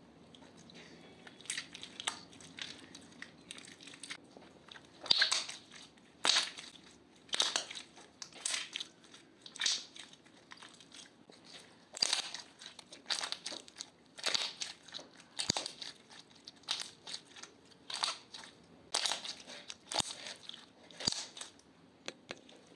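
Slime with crushed makeup mixed into it being pressed and squeezed by hand, making a run of short crackling, crunching pops about once or twice a second.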